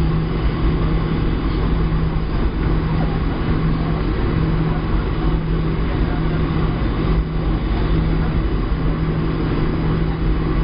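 Steady engine and airflow noise inside the cabin of a Boeing 737-700, with a low hum that fades in and out.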